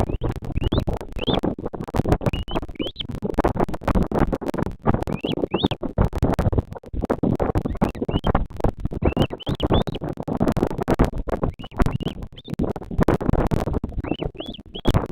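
Wind buffeting the nest camera's microphone, a constant rough rumble and crackle, with short, high, rising bird chirps recurring throughout, often in pairs.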